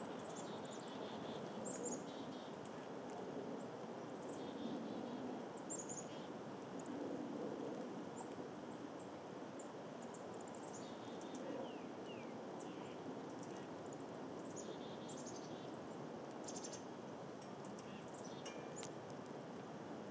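Small songbirds giving short, high chirps and calls scattered throughout, over a steady rush of wind.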